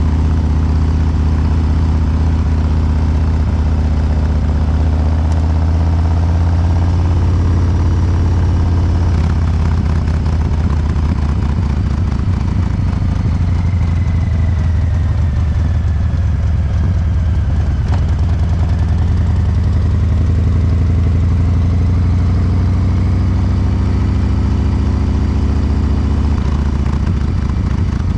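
Harley-Davidson Breakout 114's Milwaukee-Eight V-twin running through COBRA Neighbor Hater slip-on mufflers, injection-tuned for a three-beat lope. The engine note sags a little in the middle and then climbs again.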